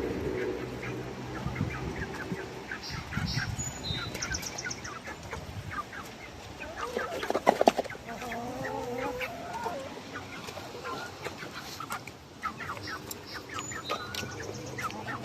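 Chickens clucking while they peck and scuffle over food, with many quick sharp taps throughout. There are high peeps about four seconds in, and a loud flurry of taps and clucks about seven seconds in.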